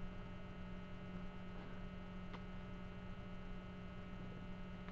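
Steady electrical hum picked up by the recording, with a faint click about halfway through.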